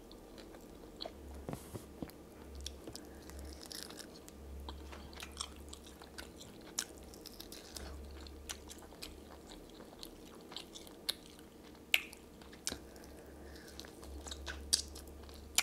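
Close-up eating sounds: a person chewing and biting soft chicken, with wet mouth smacks and scattered sharp clicks. A faint low hum comes and goes underneath.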